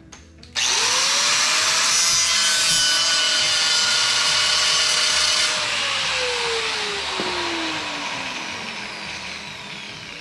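Handheld electric grinder cutting or grinding metal on an old truck frame. The motor spins up about half a second in and cuts hard for about five seconds. It is then released and its whine falls slowly as it winds down.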